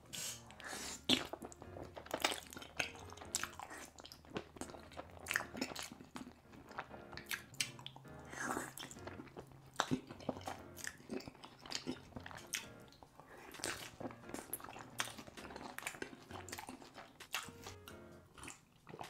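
Close-miked ASMR eating: a person chewing and biting mouthfuls of chili cheese fries heavy with cheese sauce, in many short irregular mouth sounds, with background music underneath.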